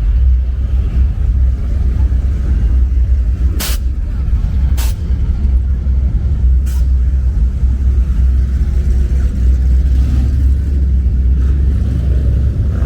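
A low, steady rumble like a car engine idling, broken by three sharp clicks about 4, 5 and 7 seconds in.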